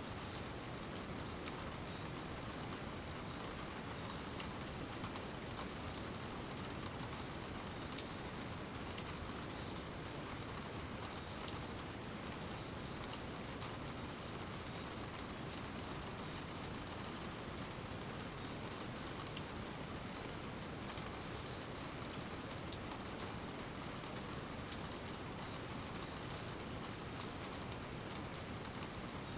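Steady rainfall, an even hiss with scattered drops ticking on surfaces.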